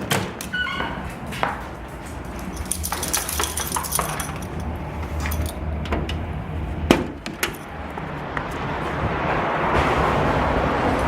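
A string of knocks and clicks with a metallic jingle, like keys or tags, about three seconds in, then a steady hiss of wind and outdoor noise rising over the last few seconds as a door opens onto a snowstorm.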